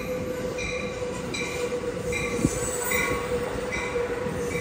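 Train running past on the tracks with a steady squeal and a rising rumble. Short high-pitched squeals repeat about every three-quarters of a second.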